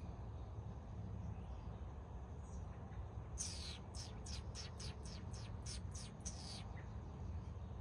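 A small bird calling: a quick run of about a dozen high, downward-sweeping chips, about four a second, starting a few seconds in and lasting about three seconds. A steady low rumble runs underneath.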